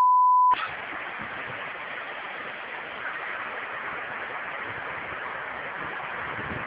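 A censor bleep, a pure steady tone lasting about a second, ends just after the start; then a steady rushing hiss with no distinct events.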